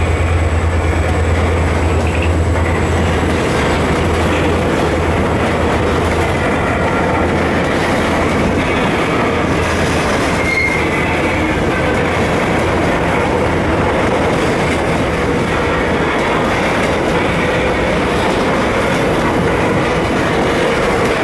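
Coal train of empty wagons rolling past, a steady rumble of wheels on the rails with brief high wheel squeals now and then. A low engine drone fades away over the first few seconds.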